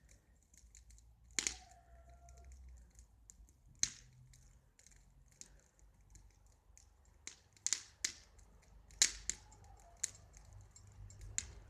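Bonfire crackling, with sharp irregular pops a second or a few seconds apart.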